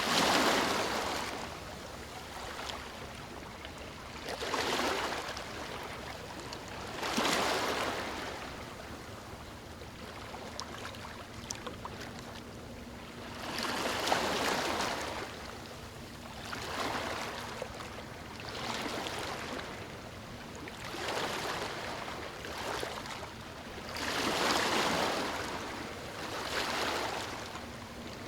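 Small ocean waves breaking and washing up a beach, one every two to three seconds, each a rising and falling rush of surf over a steady hiss.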